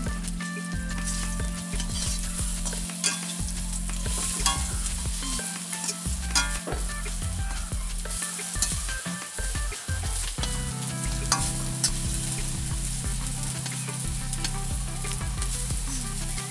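Battered pieces sizzling in hot mustard oil in a metal kadai. A flat metal spatula turns and scrapes them throughout, with frequent clicks and scrapes against the pan.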